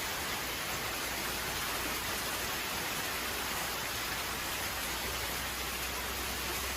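Heavy storm downpour falling in a steady, dense hiss.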